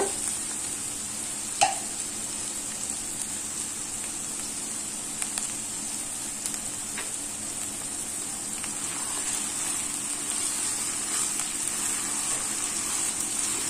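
Chicken pieces and fried onions sizzling steadily in oil in a wok, with one short clink about one and a half seconds in.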